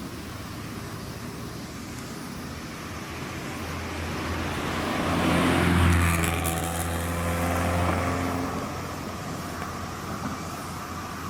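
A car driving past with its engine running: a low engine note builds up, is loudest about halfway through, then fades away as it goes by.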